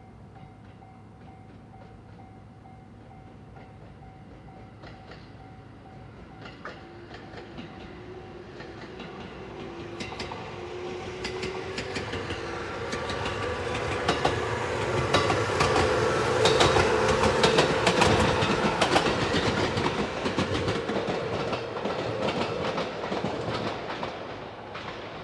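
JR 213-series electric train pulling away from a station and passing close by, gaining speed. Its motor whine rises in pitch, with wheels clicking over the rail joints. It grows louder to a peak past the middle, then eases near the end.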